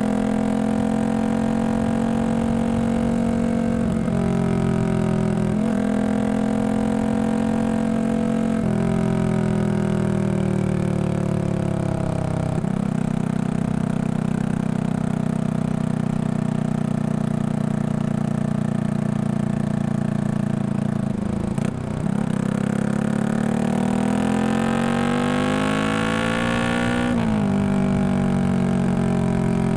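Exhaust note of a Yamaha XSR155's single-cylinder engine, bored up to 183cc and breathing through a Norifumi full exhaust, under way on the road. The pitch climbs and drops back several times at the start as the gears change, holds steady for a stretch, then climbs hard under acceleration, drops sharply at a shift near the end, and rises again.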